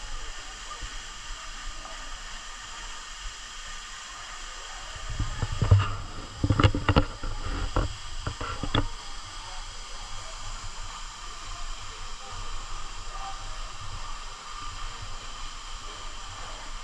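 Waterfall rushing steadily as it drops into its pool. A cluster of sharp knocks and low thumps, the loudest sounds here, comes around the middle.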